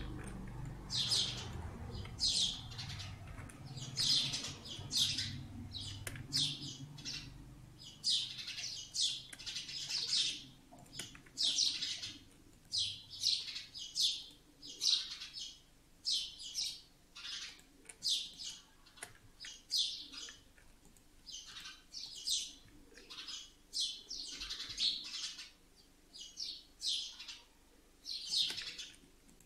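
A bird chirping over and over in short high chirps, about one or two a second, with brief pauses between runs.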